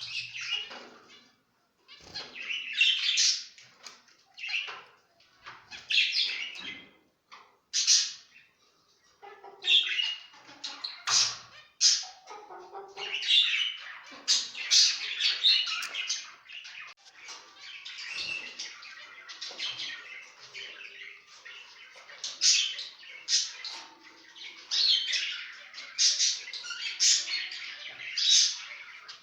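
Zebra finches calling: many short, high calls in quick runs, with brief pauses between them.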